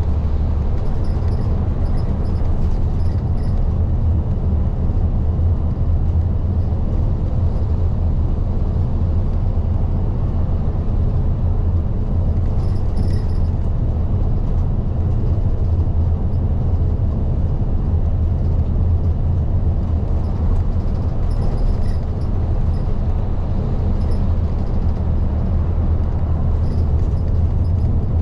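Isuzu Erga diesel city bus running at a steady speed, a constant low engine and road rumble heard from inside the cabin, with faint light rattles.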